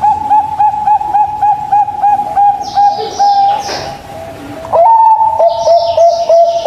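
Zebra dove (perkutut) cooing: a long run of quick, evenly spaced notes on one pitch, about five a second, then a short pause and a second run that starts a little higher and settles lower. Faint high chirps of other small birds sound above it.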